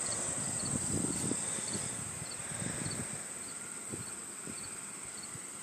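Insects chirring: a steady high-pitched drone with a cricket's short double chirps repeating about every half second, over low rustling and scuffs in the first few seconds.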